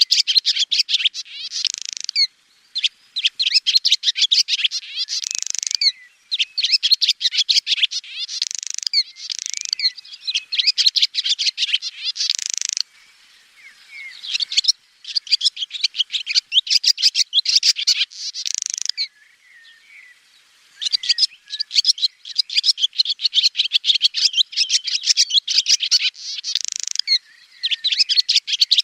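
Swallow singing: fast runs of high twittering chirps in phrases of two to four seconds, several ending in a harsh buzzy note, with short pauses between phrases.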